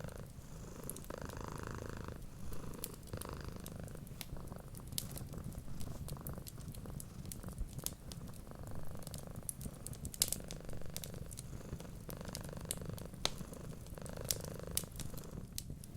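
Cat purring steadily in a low rumble, with a wood fire crackling in scattered sharp pops and ticks.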